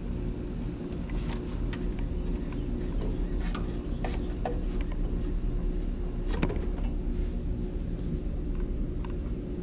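Steady low hum of a running air conditioning unit, an old R22 system, with its dirty coil under inspection. Short high bird chirps come in pairs about once a second over it, with a few light clicks.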